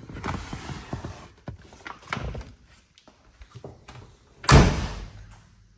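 Car door on the 1969 Camaro shut with a single heavy thunk about four and a half seconds in, after a few seconds of rustling and light clicks as someone moves about the car.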